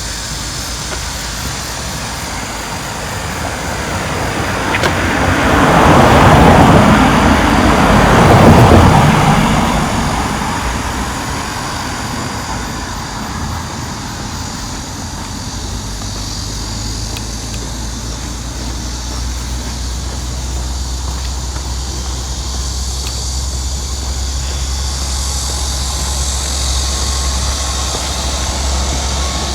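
A road vehicle passes close by, rising to a peak about six to nine seconds in and then fading away. Afterwards a low engine rumble slowly builds.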